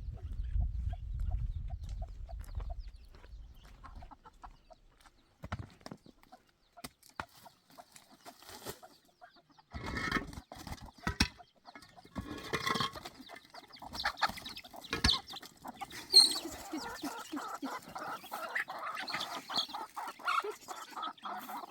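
Chickens clucking, most densely over the last few seconds, with scattered sharp knocks and clatter earlier on.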